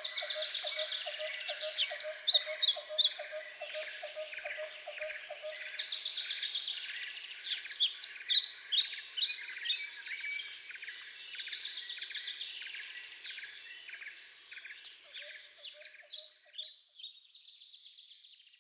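Many birds chirping and twittering in high, rapid calls, loudest in two bursts about two and eight seconds in. A lower pulsing call repeats about three times a second during the first few seconds. The sound fades out near the end.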